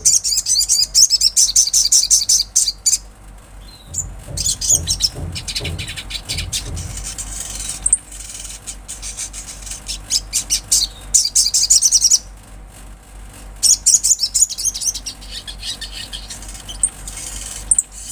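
Olive-backed sunbird singing: rapid, high-pitched twittering trills in several bursts separated by short pauses.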